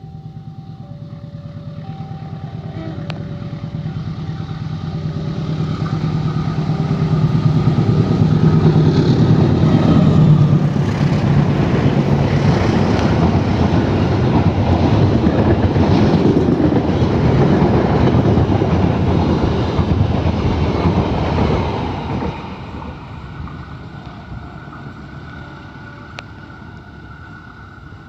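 A train hauled by a KAI CC204 diesel-electric locomotive passing by: the engine's steady low note and the clatter of the wheels on the rails build to a loud pass and then fade away. For the first few seconds a level-crossing warning bell chimes in two alternating tones.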